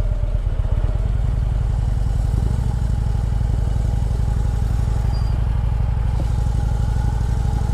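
Harley-Davidson V-twin motorcycle engine running steadily with a rapid low pulsing, getting a little louder about two and a half seconds in.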